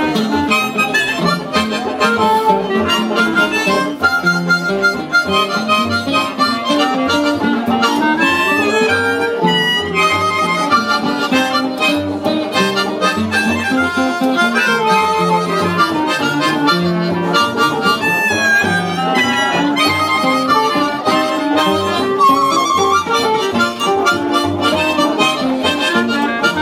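Live band instrumental with a harmonica playing the lead melody in bending, sliding notes over guitar and a steady rhythm.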